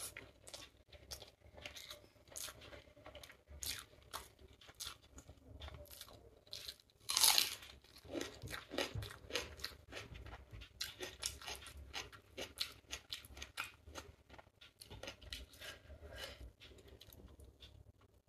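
Close-up chewing and wet mouth clicks of a person eating chicken biryani rice by hand, with one louder, longer noise about seven seconds in.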